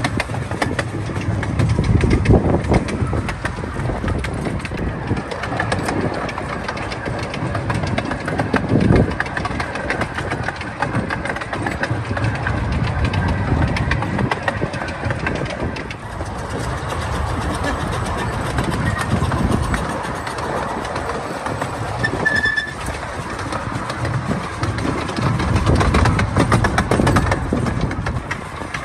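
Miniature railway train running along the track: a steady rumble of wheels with frequent clattering, and a short high squeak about two-thirds of the way through.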